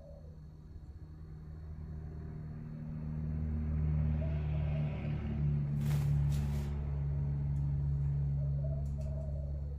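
A low, steady engine hum swells from about three seconds in and stays up, like a vehicle running nearby, with a few sharp clicks in the middle. A spotted dove coos faintly beneath it twice.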